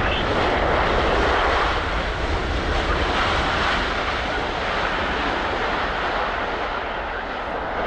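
Jet noise from an Air Canada Boeing 787-9 Dreamliner on landing: a steady rushing roar that peaks about a second in and eases a little near the end.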